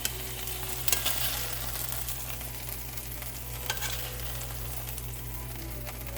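Boneless, skinless chicken thighs sizzling steadily as they brown in a frying pan, with a few sharp clicks about a second in and again near the middle.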